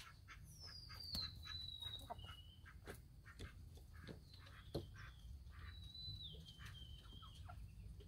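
Faint bird calls in a chicken yard: three thin, high whistles that slide down in pitch, with scattered soft taps over a low steady rumble.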